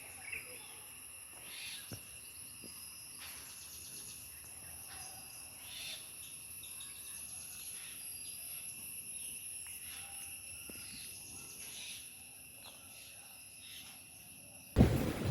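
Insects chirping and droning in a steady high-pitched chorus. Near the end it gives way suddenly to a loud train running on the rails.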